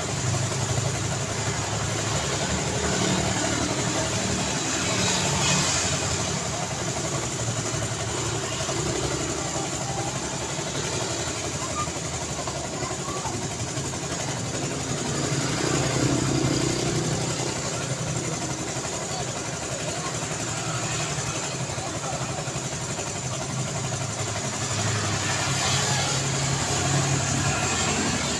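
Road traffic: a steady stream of vehicles with engines running and tyres on the road, swelling louder as nearer vehicles pass about every ten seconds.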